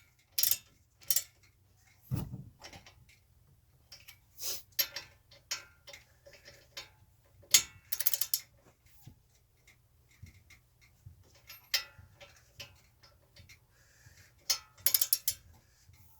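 Hand tools at work: short runs of rapid ratchet-like clicking and scattered metal clicks, with a dull thud about two seconds in.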